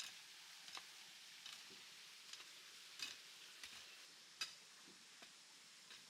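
Faint, irregular light clicks and taps, about ten of them, over a low steady hiss, the sharpest about four seconds in.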